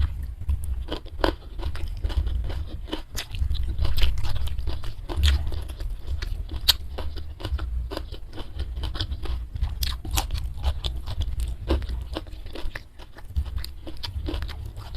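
A person chewing and crunching food close to the microphone, with many sharp mouth clicks and crunches, several a second, over a low rumble.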